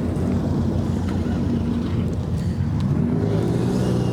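Car engine running at low speed, a steady low drone, with its pitch stepping up slightly about three seconds in.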